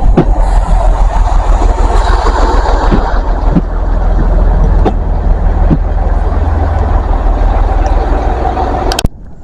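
Train passing close by with a loud, steady deep rumble and a few sharp clicks, cutting off abruptly about nine seconds in.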